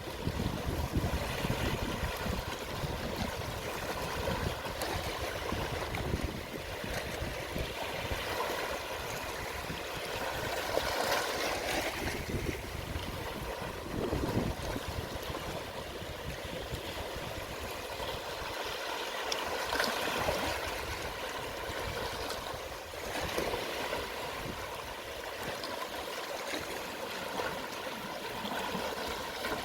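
Gentle sea waves washing onto a shallow beach at low tide, with soft swells every few seconds and water trickling and gurgling between them.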